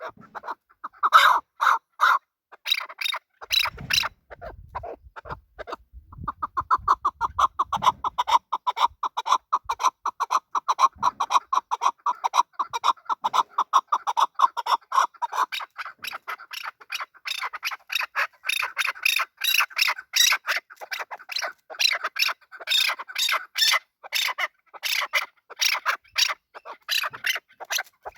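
Chukar partridge calling: series of short, sharp repeated chuck notes, with a long even run of rapid notes in the middle that gives way to quicker, higher-pitched notes later.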